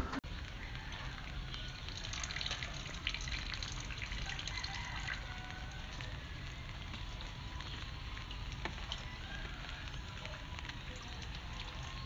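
Steady rain falling, a continuous patter with scattered drips.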